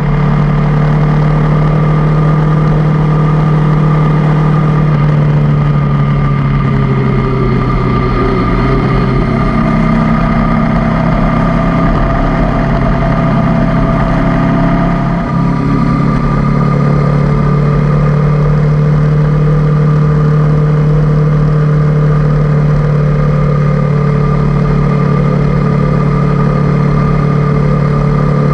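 Honda CB500X parallel-twin motorcycle engine running at a steady cruising speed, heard from on the bike. Its note dips briefly about halfway through, then settles back.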